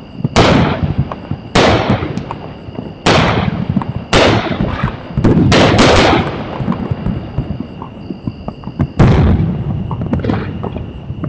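Fireworks going off: about seven sharp bangs in irregular succession, two of them close together near the middle, each followed by a fading rumble, with small crackles in between. A steady high-pitched tone runs underneath.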